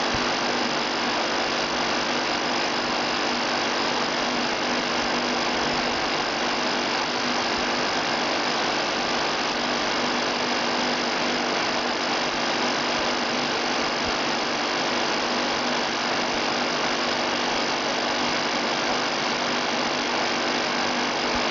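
Electric fan running steadily through a DIY cardboard evaporative cooler, with a buzzing rattle from the temperature sensor vibrating inside the fan's outlet pipe.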